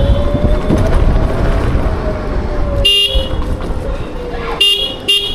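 Electric scooter motor whining as it rides, its pitch rising briefly then slowly falling as it eases off, over wind and road rumble. A vehicle horn honks three short times in the second half.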